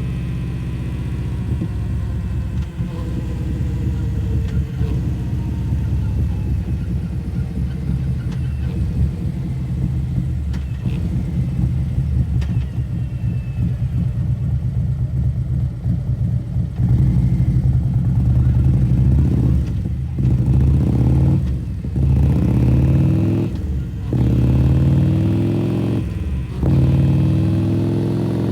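2022 Harley-Davidson CVO Road Glide's Milwaukee-Eight 117 V-twin, with a T-man 216 cam and CFR slip-on mufflers, idling steadily, then revved in a run of throttle blips in the second half, each rising and dropping back sharply.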